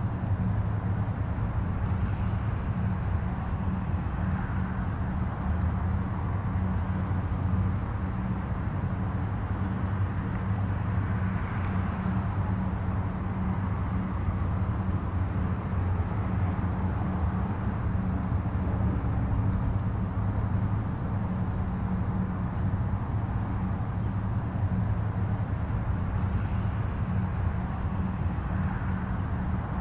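Distant highway traffic: a steady low rumble of tyres and engines, with soft swells every few seconds as vehicles pass.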